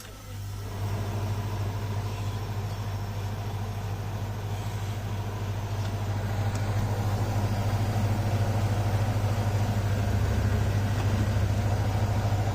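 Newly fitted hermetic refrigeration compressor of a display fridge switching on with a click, then running with a steady hum that builds over the first second and holds. It is pumping while the system is charged with R404A refrigerant.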